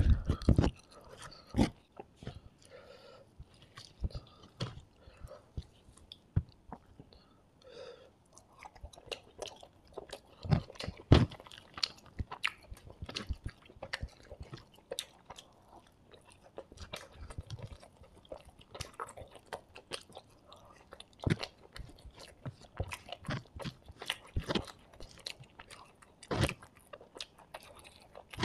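Close-miked mouth sounds of a person eating beef fried rice and porotta with curry by hand: steady wet chewing broken by irregular sharp crunches and clicks.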